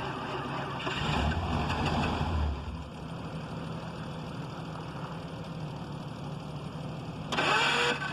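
Car engine idling steadily on a cold start in the snow, swelling louder for a moment about a second in. A brief, loud, higher-pitched burst comes near the end.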